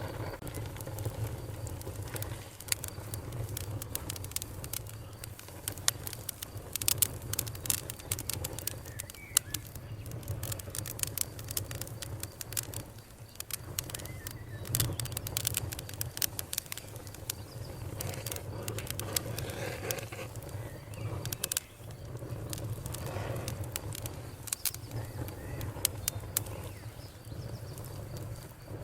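Campfire crackling and popping: irregular sharp snaps of burning wood, at times in quick clusters, over a steady low rumble of the fire.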